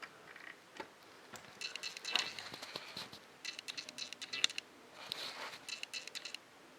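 Faint clicking and whirring in about four short bursts: a camera lens's autofocus motor hunting without locking focus.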